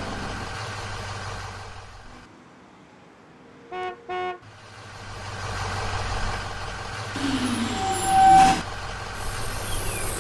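Vehicle engine running and fading away, then two short horn toots about four seconds in, after which engine noise builds again, with a brief loud tone near the end.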